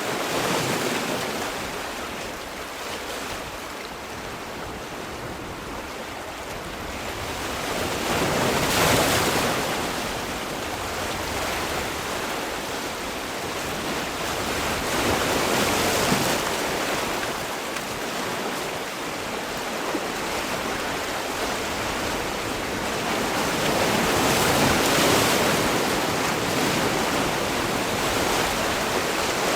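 Ocean waves breaking and washing in a steady surf, with a louder wave surging in every seven to nine seconds, three times.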